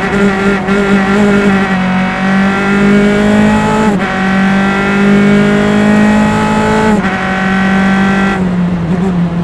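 Single-seater race car's engine under hard acceleration, heard on board from engine-mounted mics. Its pitch climbs steadily, with a brief break at each upshift about four and seven seconds in, and the note falls off near the end as the throttle comes off.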